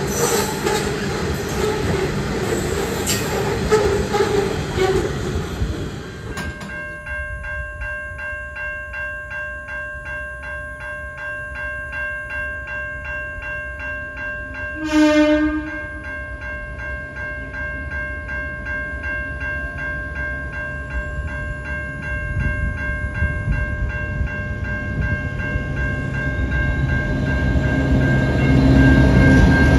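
Hopper wagons of a freight train roll past with clickety-clack of the wheels; then level-crossing bells ring steadily in a pulsing pattern. About halfway through a diesel locomotive's horn sounds once, briefly, and near the end the low rumble of Pacific National 82 class diesel locomotive 8203 grows loud as it reaches the crossing.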